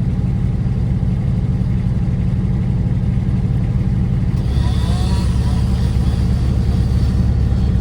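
Kubota utility vehicle's engine running steadily, its low hum getting stronger about four and a half seconds in. In the second half a chainsaw making the back cut on the tree is faintly heard farther off.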